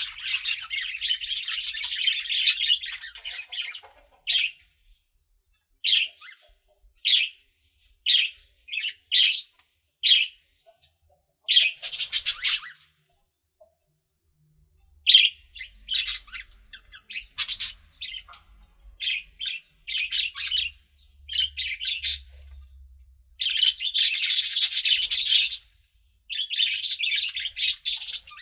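Pet budgerigars chirping and chattering: a run of warbling at the start, then short chirps spaced with quiet gaps, and bursts of chatter again near the end.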